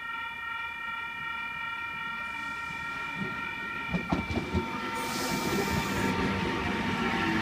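NSW TrainLink H set (Oscar) electric train arriving at the platform. A steady high-pitched tone holds for the first few seconds, then wheel clicks over rail joints about four seconds in, and a rumble that grows louder as the train draws in.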